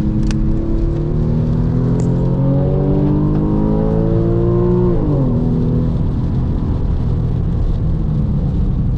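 A Porsche 996 Carrera's flat-six with a valved sport muffler, pulling under acceleration and rising steadily in pitch for about five seconds. It then drops sharply in pitch and runs on lower, over a steady hiss of tyres on a wet track.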